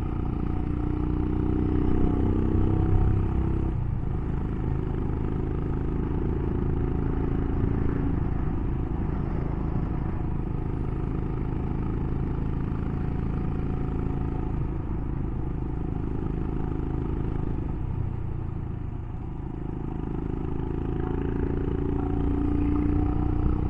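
Royal Enfield Himalayan's single-cylinder engine running on the move, its note shifting with the throttle; it eases off about three quarters of the way through and then builds again.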